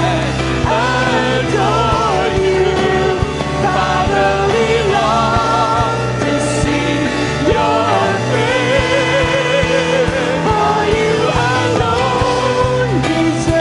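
Church worship band playing a song with a lead vocal held and wavering over a steady bass.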